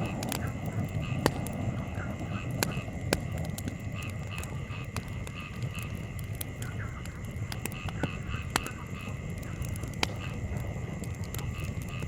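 Wood campfire burning, with sharp crackling pops every second or two over a low steady rumble of breeze. A steady run of short repeated animal calls, from frogs in the field, carries on behind the fire.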